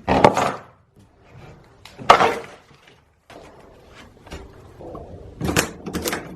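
Demolition crashes inside a mobile home: two loud breaking impacts about two seconds apart, then a quick run of smaller crunching knocks near the end, as thin interior material gives way.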